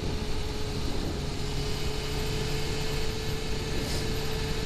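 Suzuki GSX-R750's inline-four engine running at a steady, unchanging pitch while riding, with a constant rush of wind noise over the helmet microphone.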